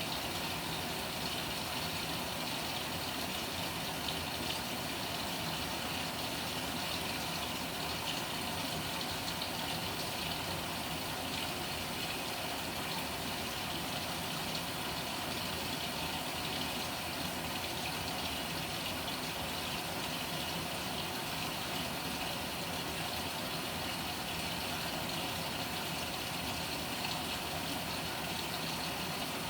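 Panasonic NA-FA100H9 top-loading washing machine running mid-cycle: a steady, unbroken motor and water noise from the drum.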